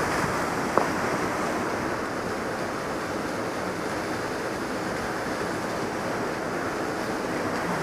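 Steady rush of a powerful glacial waterfall and river, with one brief click about a second in.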